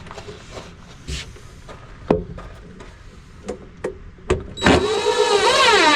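A few light knocks as a screw and bracket are set, then a power drill drives a screw for about two seconds, its motor whine wavering and dropping in pitch as the screw pulls tight.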